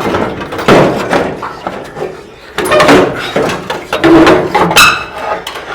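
Irregular metal clunks, knocks and scrapes as a truck radiator is worked loose and pulled out past the engine fan, with a brief high metallic scrape near the end.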